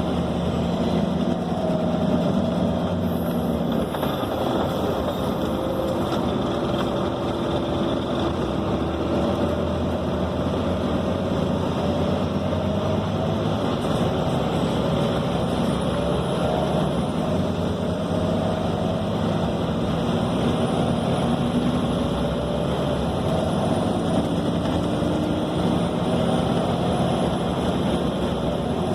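Scania K270 bus heard from inside the passenger cabin while under way. The engine note climbs and drops back several times over a steady rumble of road and body noise.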